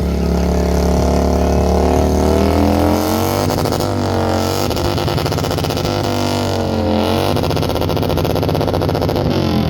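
1960 Chevrolet Impala's engine running with a low rumble and revved twice, its pitch climbing and falling back, once a few seconds in and again near the end.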